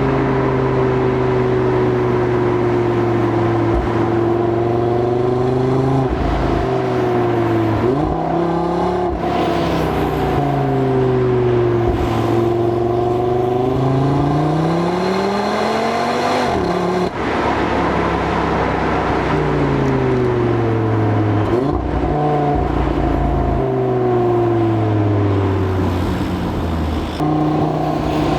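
Audi RS3's turbocharged 2.5-litre five-cylinder engine under hard driving, its pitch repeatedly climbing under acceleration and dropping with gear changes and lifting off.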